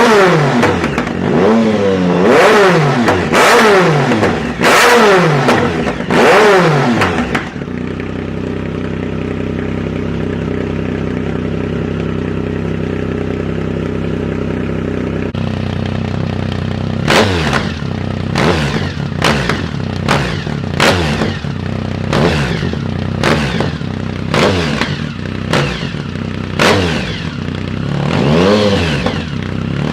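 Triumph Speed Triple's 1050 cc three-cylinder engine through a Competition Werkes exhaust, revved up and down repeatedly, then settling to a steady idle for several seconds. It is then blipped sharply over and over, with loud pops and cracks from the exhaust as each rev drops, and revved once more near the end. The owner puts the exhaust popping down to the bike being untuned, with its secondary air injection not yet blocked off.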